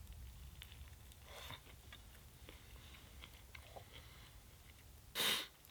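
A man chewing a mouthful of bacon sandwich, faint small crunches and clicks. A short breathy rush of noise comes near the end.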